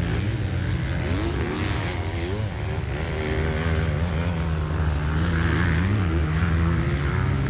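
Motocross dirt bike engine revving on the throttle, its pitch rising and falling several times as it rides.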